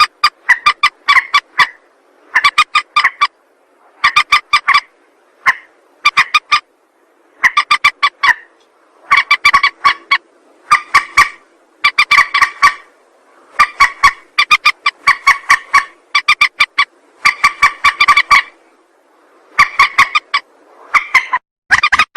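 Recorded lure call of a mandar (rail) bird: loud bursts of rapid, repeated pulsed notes, each burst about a second long, coming again and again with short pauses between them.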